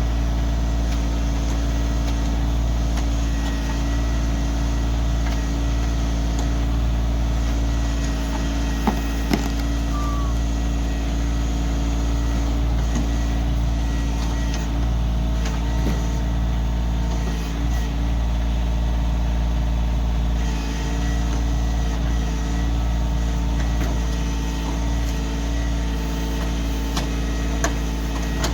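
Kioti CK2610 compact tractor's three-cylinder diesel engine running steadily under backhoe work, with a few sharp knocks about nine seconds in and again near the end.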